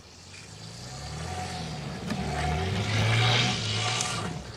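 Audi A6 C5 2.8 quattro's V6 engine revving hard under load, rising and falling in pitch and growing louder, with the rushing hiss of tyres spinning through snow at its loudest. It drops off sharply near the end.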